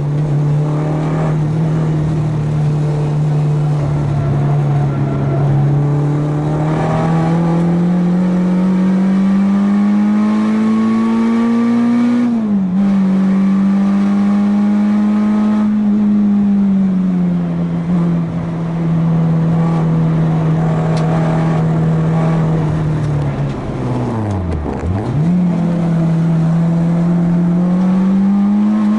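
Four-cylinder track-day car engine at high revs through a lap, its note rising and falling with the gear changes. About twenty-four seconds in, the revs drop sharply and climb back, braking and shifting down for a corner.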